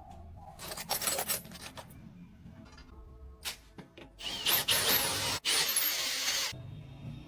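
Workshop tool noise during a motorcycle engine repair: a few short rubbing or scraping strokes, then a power tool running loudly for about two seconds with a brief break in the middle.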